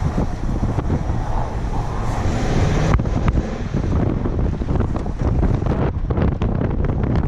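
Heavy wind buffeting the microphone, over the low rumble of a 1995 Ford F150 4x4 truck moving through snow, with choppy gusts in the second half.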